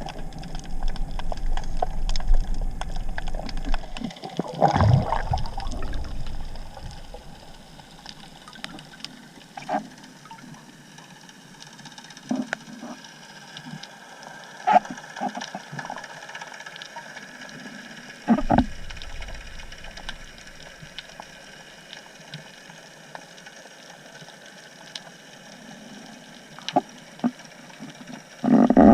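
Underwater ambience: a faint steady crackle of scattered clicks and a hiss. Short, louder low water rushes come about five seconds in and again about two-thirds of the way through.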